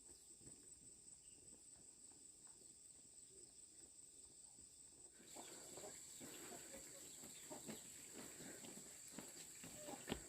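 Near silence: faint outdoor ambience with a steady high-pitched whine and scattered faint rustling, which get slightly louder about five seconds in.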